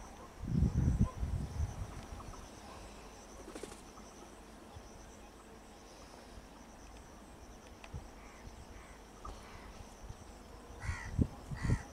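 Birds calling in open country, with two louder calls near the end. A brief low rumble comes about half a second in.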